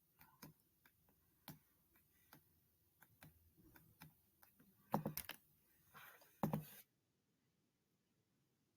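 Computer keyboard and clicks: scattered taps, with two louder clattering bursts about five and six and a half seconds in. The sound then cuts off suddenly to dead silence.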